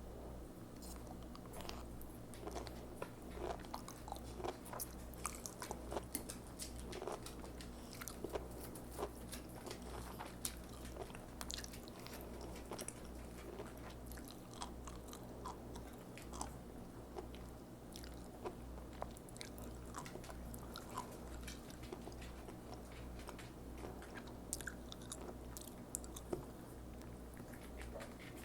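Sea grapes (green caviar seaweed) being bitten and chewed close to the microphone: many small crisp pops and crunches at irregular intervals as the little beads burst, over a steady low hum.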